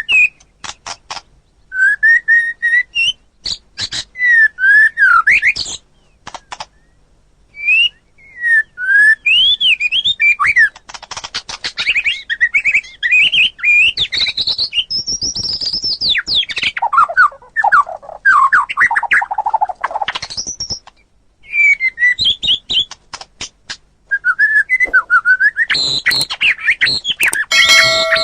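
White-rumped shama singing a varied song of loud slurred whistles that rise and fall, mixed with rapid clicking phrases. It comes in bursts broken by short pauses, with some low, fluting notes in the middle of the stretch.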